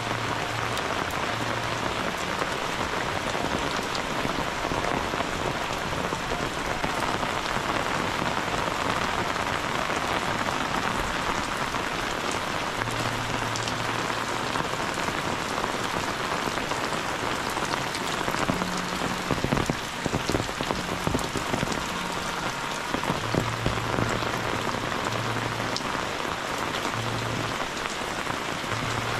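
Heavy rain falling steadily on roofs and wet ground, an even hiss. For a few seconds past the middle, sharper, closer drop hits stand out above it.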